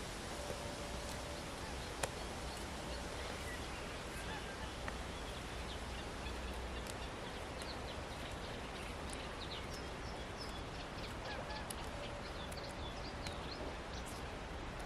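Songbirds chirping over a steady outdoor background hiss, the chirps coming more often in the second half, with a few faint drawn-out low calls and one sharp click about two seconds in.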